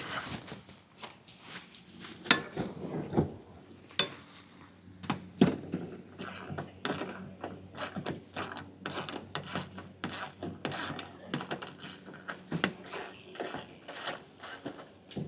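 Irregular clicks, knocks and rattles of hand work on a pickup truck's tail light housing as it is worked loose, with a few louder knocks in the first half.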